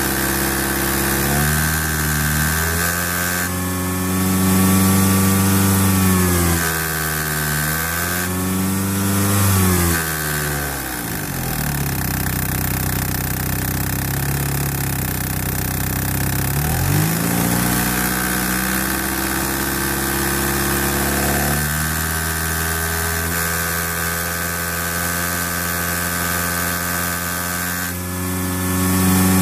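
1991 DSM Talon TSi's turbocharged 4G63 inline-four running, its revs raised and let fall again a few times, dropping low for a while in the middle, then held up at a steadier higher speed and raised again near the end. The engine is being run to bring out a ticking noise.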